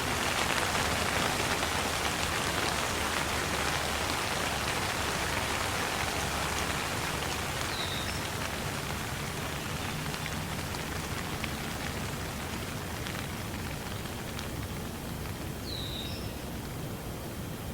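Steady rain falling and pattering on surfaces, slowly easing and growing quieter over the stretch. Two short high chirps sound, one about halfway and one near the end.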